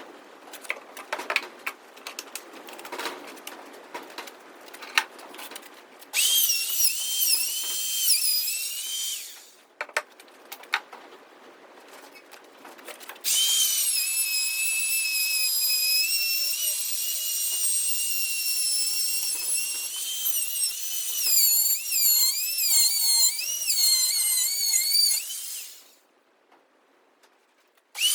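Power drill whining in two long runs, its pitch wavering up and down as the speed changes under the trigger and load. Before it come a few seconds of scattered clicks and knocks.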